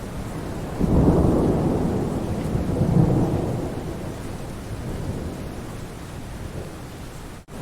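Steady rain with a rolling rumble of thunder that swells about a second in, peaks a couple of seconds later and dies away. Near the end there is a brief dropout, like the seam of a looped recording.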